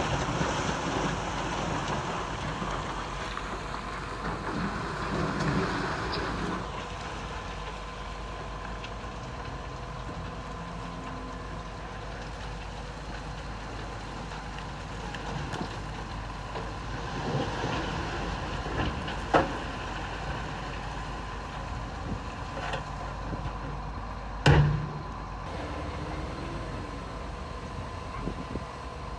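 Heavy construction machinery running steadily, with a rougher stretch at first and two sharp knocks, the second, about 24 seconds in, the loudest.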